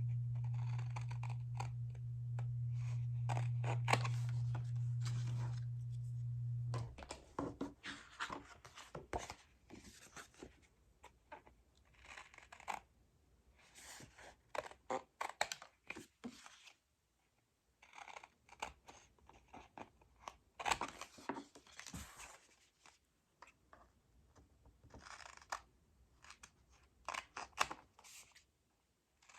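Scissors cutting cardstock, a run of irregular short snips and scrapes as the blades work along a curved cut. A steady low hum, the loudest sound, runs under the cutting and stops about seven seconds in.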